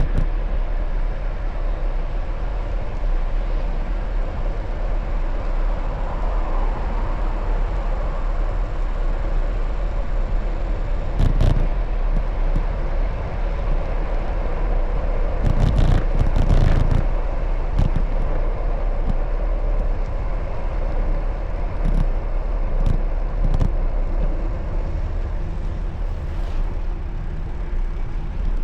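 Steady road and traffic noise with a constant low rumble, and a few short knocks and thumps about eleven seconds in and again around sixteen to seventeen seconds.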